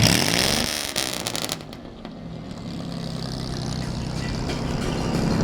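Classic car engines driving past. One goes by with its pitch dropping and fades in the first second or two, then another engine note grows steadily louder as it approaches.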